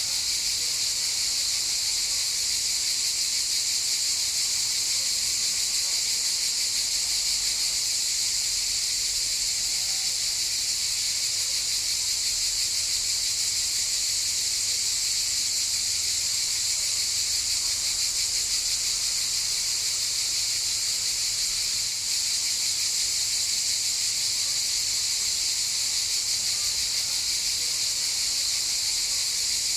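A chorus of cicadas buzzing, a dense continuous high-pitched drone that holds steady without pause.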